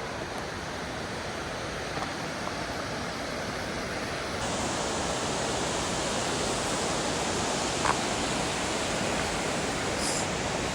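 Waterfall's rushing water, a steady roar that grows louder and brighter about four seconds in, with a short click near the end.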